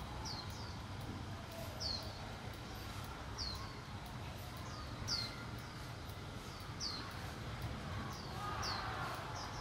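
A bird calling again and again: short, falling high chirps, often in quick pairs, about every second and a half. Under them runs a low, steady rumble.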